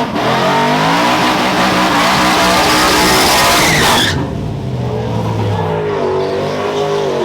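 Drag-racing truck engine running at high revs with tyre squeal, loud for about four seconds before the high hiss cuts off sharply, leaving the engine at lower revs.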